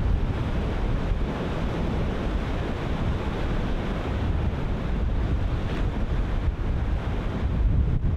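Ocean surf breaking continuously, wave on wave, with strong wind buffeting the microphone as a steady low rumble.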